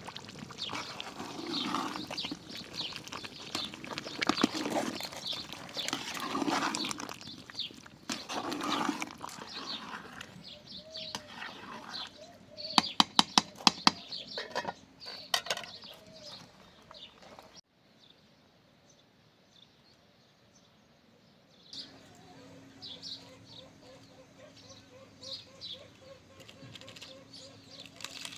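Farmyard animal sounds, with chickens and small birds chirping. A quick run of sharp knocks comes about halfway through, then the sound drops to quieter chirps with a faint steady hum.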